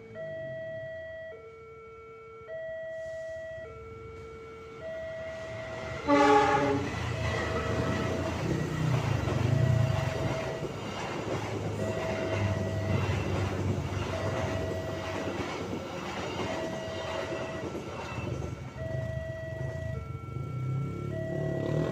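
Level-crossing warning signal alternating between two tones, changing about once a second. About six seconds in, a passenger train sounds a short horn blast, then passes with a loud rumble and rattle while the crossing signal keeps sounding.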